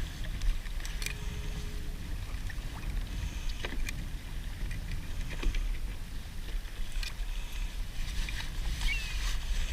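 Water sloshing against a kayak's hull under a steady low rumble, with occasional light clicks and knocks as crabs are handled aboard.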